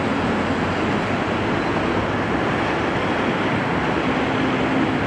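Steady, even rushing noise of a train rolling past at close range, with no separate exhaust beats.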